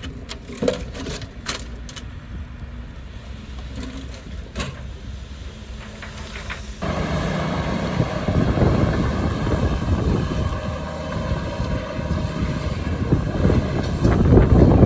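Heavy diesel earthmoving machinery running: a low engine hum with a few sharp cracks in the first seconds. About seven seconds in, the engine noise jumps suddenly much louder and keeps going, getting louder again near the end.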